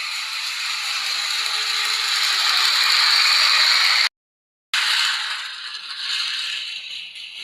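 Toy model train's small electric motor and gearbox running, a steady mechanical rattle that grows louder over the first four seconds. It cuts off abruptly to silence for about half a second, then resumes and fades somewhat.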